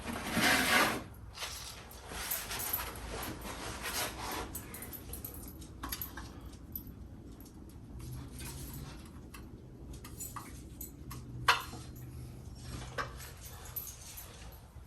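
Rubbing and scraping handling noises, loudest in the first second, followed by a few scattered sharp clicks and knocks.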